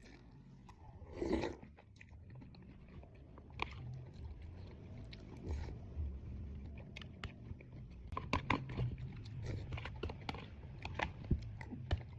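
A person biting and chewing food with crunching, the sharp crunchy clicks coming thicker in the second half.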